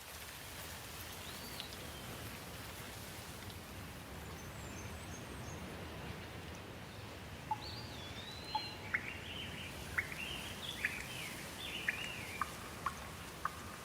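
Steady rain hiss with a songbird singing over it: a few whistles early, then a busy run of quick rising and falling chirps and whistles through the second half.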